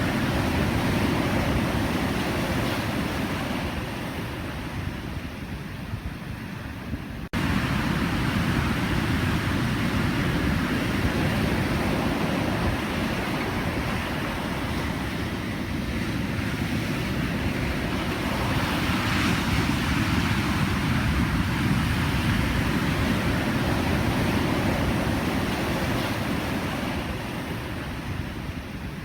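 Pacific Ocean surf: a continuous rush of waves breaking and washing in, swelling and easing slowly. About seven seconds in, the rush dips and then jumps back abruptly.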